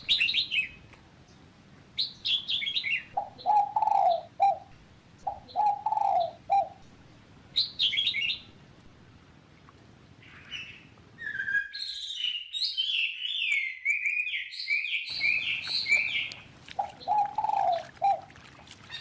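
Birds calling: short bursts of high, falling chirps, lower-pitched calls in between, and a quick run of falling notes lasting several seconds in the second half.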